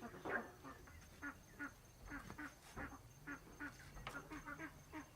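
Domestic fowl calling in a steady run of short, nasal, quack-like calls, about three to four a second, with a couple of faint clicks.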